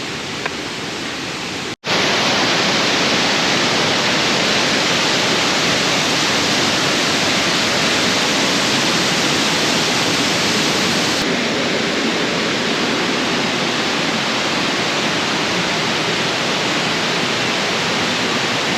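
Waterfall water rushing and splashing in a loud, steady, even roar. It cuts out for an instant about two seconds in and comes back louder, and its tone shifts slightly about halfway through.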